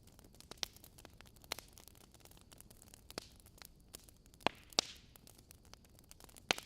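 Wood fire crackling in a fireplace: irregular sharp pops and snaps over a soft hiss, with two louder pops about four and a half seconds in and another near the end.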